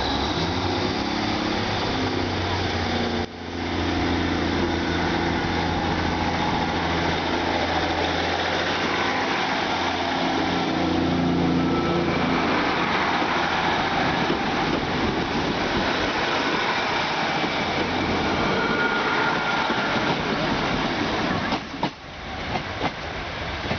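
A diesel train runs past. Its engine drones steadily at first, then gives way to a broader, even rush of the train running along the track. The sound drops out briefly about three seconds in and again near the end.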